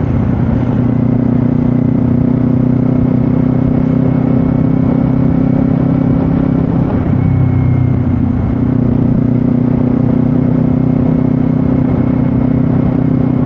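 Kawasaki Z500 parallel-twin engine running steadily at cruising speed, with wind rushing over the microphone. The engine note shifts slightly about halfway through.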